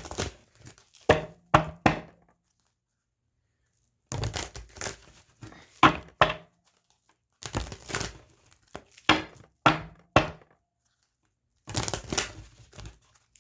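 Tarot deck being shuffled and handled: bursts of sharp card slaps and rustling, several clusters with short pauses between them.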